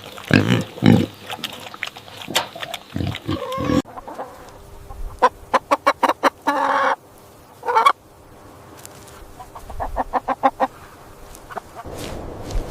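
A pig grunting, then after an abrupt cut a hen clucking in quick runs of short notes, with a couple of longer drawn-out calls in the middle.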